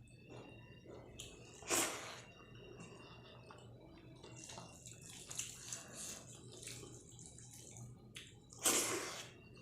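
Wet mukbang eating sounds of dal and rice: squishing and chewing, with two louder wet noises, one about two seconds in and one near the end.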